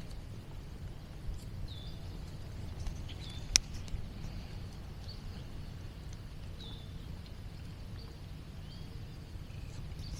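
A bird calling repeatedly, a short high falling note about every second and a half, over a steady low rumble of wind or handling noise. One sharp click about three and a half seconds in.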